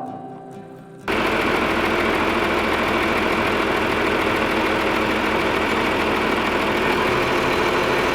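A metallic ring fades out, then about a second in a John Deere tractor's diesel engine is suddenly heard running steadily with a knocking chug.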